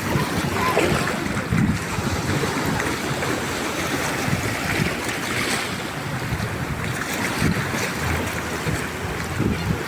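Wind buffeting the microphone over the steady rush of surf.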